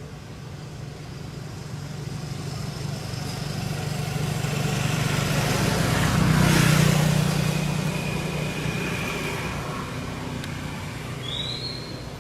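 A motor vehicle passing by: its engine hum and road noise grow louder to a peak about halfway through, then fade away.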